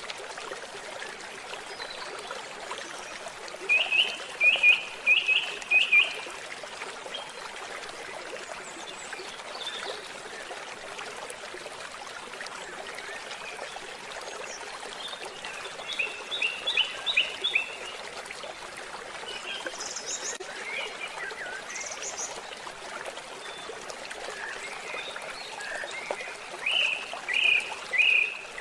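Steady trickle of a stream, with a bird singing over it: three runs of quick, short, repeated chirps about two seconds each, and a couple of brief higher calls between them.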